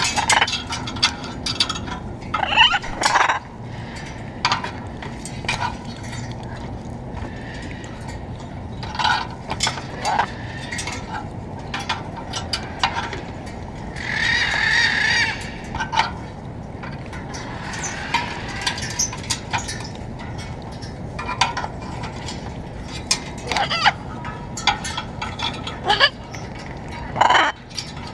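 Blue-and-yellow macaws giving harsh, raucous squawks on and off, with a longer call about halfway through, and a few short clicks between the calls.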